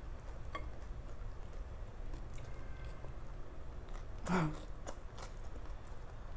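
A person chewing a mouthful of rice eaten by hand, with small wet mouth clicks. There is a short hummed "mm" about four seconds in, over a low steady background hum.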